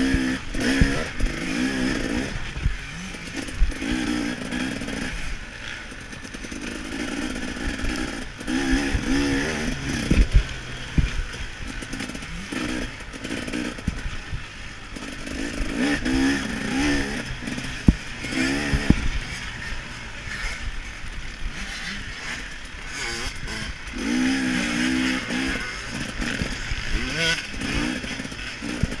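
KTM 300 XC-W 300cc two-stroke dirt bike engine revving up hard and backing off again and again, heard from a chest-mounted camera on the rider. Clattering knocks from the bike over rough ground come through, one sharp one near the middle.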